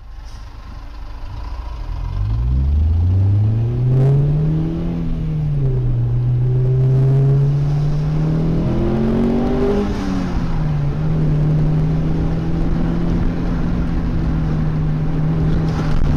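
Car engine accelerating, its pitch climbing and then dropping at each of two gear changes, about five and ten seconds in, then holding a steady pitch.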